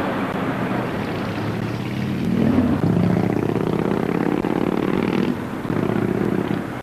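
FS D345 diesel locomotive running, its engine note swelling louder for about three seconds, dropping briefly, then returning for a shorter stretch.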